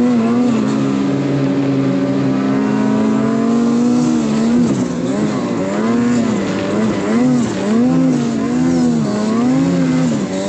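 Snowmobile engine running hard while towing through snow, its pitch steady at first and then rising and falling repeatedly as the throttle and load change.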